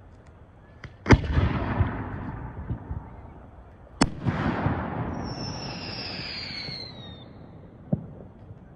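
Two aerial firework shells bursting about three seconds apart, each bang followed by a few seconds of crackle and rumble dying away. After the second, a whistle falls in pitch, and a small pop comes near the end.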